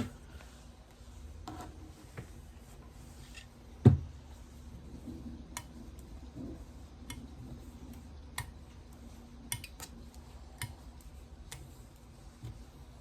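Scattered light clicks and taps of small tools and objects being handled on a sewing table, with one loud knock about four seconds in, over a faint steady hum.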